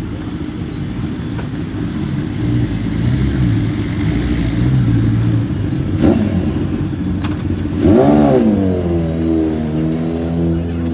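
Motorcycle engine running on the road, with a sharp rev that rises and falls in pitch about eight seconds in before settling back to a steady note.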